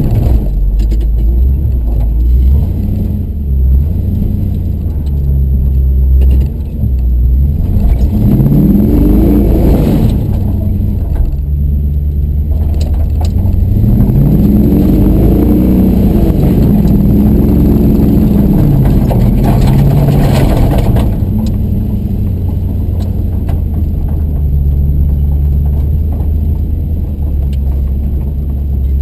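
Truck engine running and revving up and down several times while pulling a tow.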